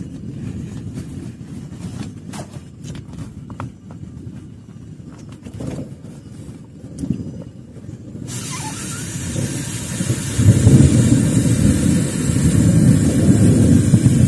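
Heavy rain drumming on a plastic tarp, a deep rumble with scattered drops ticking; about eight seconds in a bright hiss of rain sets in abruptly, and the low rumble grows louder.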